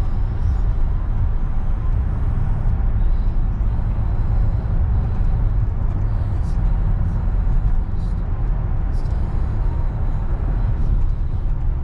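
Steady low rumble of a car on the move, with road and wind noise.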